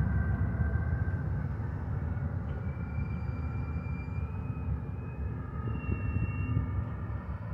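Double-stack container train rolling slowly past: a steady low rumble of cars on the rails that eases off a little, with a few faint, thin high squeals in the second half.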